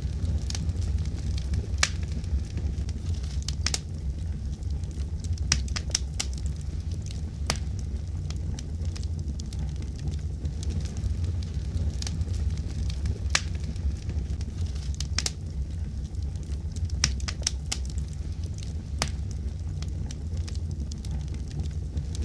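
Wood fire crackling in a fireplace: irregular sharp pops every second or two, some in quick clusters, over a steady low rumble of the flames.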